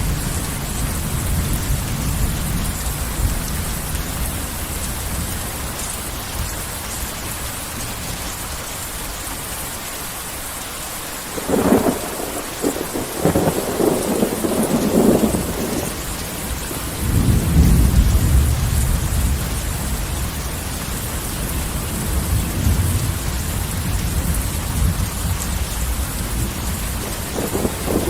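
Heavy rain falling in a steady hiss, with thunder. A sharp crack of thunder comes a little before halfway and crackles on for a few seconds. It is followed by a long, deep rumble that swells and dies away, and another crack comes near the end.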